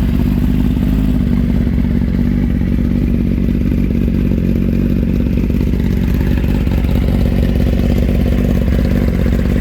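2021 Kawasaki Ninja ZX-10R's inline-four idling steadily through an M4 slip-on exhaust, sounding healthy.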